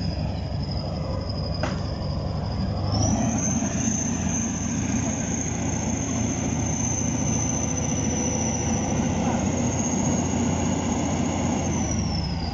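Heavy diesel tractor engine, most likely the K-700's, running steadily with a high whine. About three seconds in it revs up under load, as when working the loader, and holds there until it settles back down near the end.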